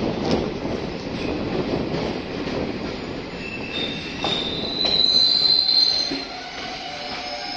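Passenger train rolling slowly along a station platform, heard from the coach: a steady rumble of wheels on rail, with a high metallic squeal from the train rising over it about halfway through, loudest for about a second before it drops away.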